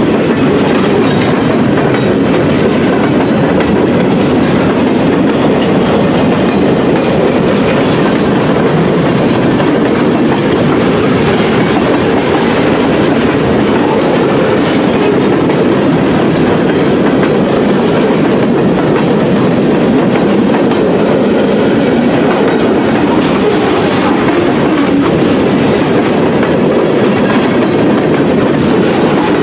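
Freight cars of a mixed freight train, boxcars and covered hoppers, rolling past on steel wheels over the rails. The sound is loud and steady throughout.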